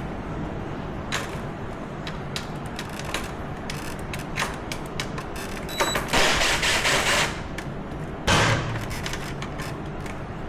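Small metal fasteners and washers being handled and sorted by hand: scattered light clicks and clinks, with a louder rattling clatter about six seconds in lasting a little over a second and a shorter one about two seconds later, over a faint steady low hum.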